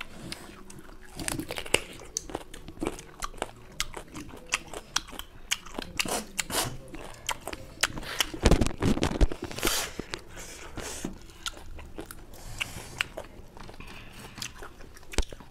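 Several people biting into and chewing raw lemon wedges: a run of crunches, clicks and mouth noises, loudest a little past the middle.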